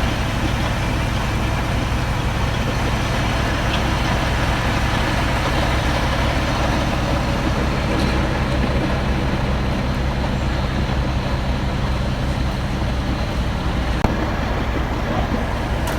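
Heavy recovery truck's diesel engine running steadily, a low even hum that holds without change.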